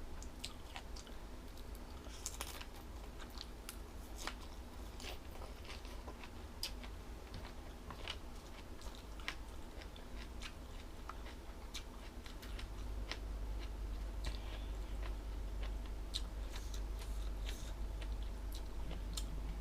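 A person chewing crunchy jellyfish salad close to the microphone: irregular crisp crunches and small wet clicks. Under it a steady low hum grows louder a little over halfway through.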